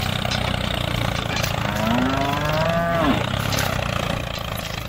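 A cow moos once, a single call of about a second and a half starting near two seconds in, its pitch rising slightly and then dropping at the end. A steady low engine hum runs beneath it.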